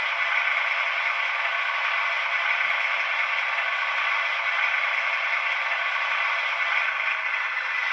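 Class 37 diesel locomotive's English Electric V12 engine running steadily and loudly under load test.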